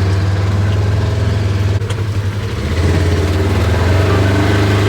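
Engine of a slow-moving vehicle running steadily with a deep drone. Its level dips for about a second a couple of seconds in, then comes back up.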